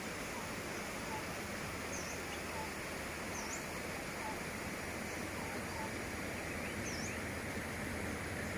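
Steady outdoor rushing noise with a few short bird chirps, about three of them high-pitched.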